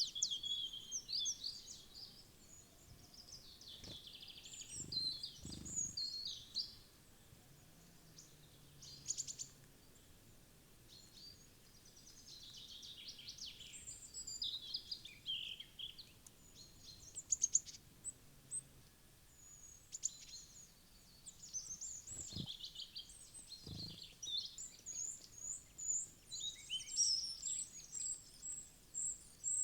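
Small wild birds chirping and calling almost without pause, many short high notes and trills, with a few soft knocks about four seconds in and twice near the twenty-two to twenty-four second mark.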